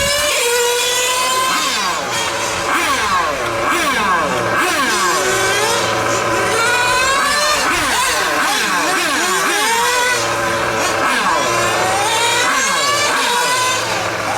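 Several nitro-engined RC cars running on a track together, their small glow engines revving high and dropping off over and over, with several pitches rising and falling at once.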